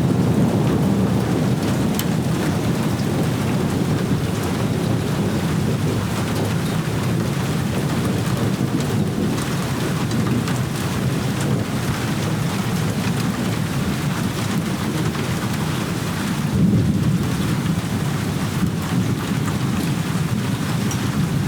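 Steady heavy rain with a low rumble of thunder underneath, swelling briefly a little over three-quarters of the way through.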